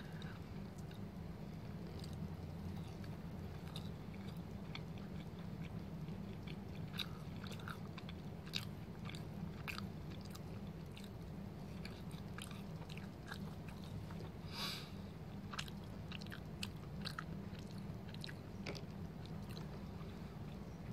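A person chewing a small piece of Malay kuih with the mouth close to the microphone: scattered wet mouth clicks and smacks, one a little louder about two-thirds of the way in, over a steady low hum.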